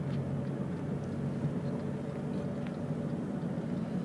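Steady low hum of a car's engine and road noise, with a few faint ticks.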